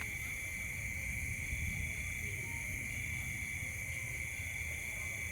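A steady, unbroken chorus of night insects, a high continuous trill like crickets, over a low rumble.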